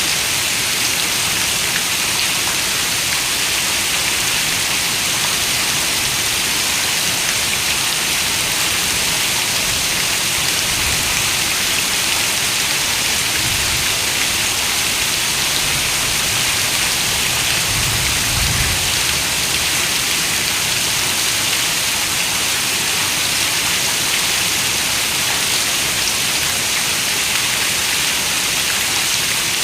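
Heavy rain falling steadily on a window, a dense, even hiss of drops. A soft low rumble swells and fades around the middle.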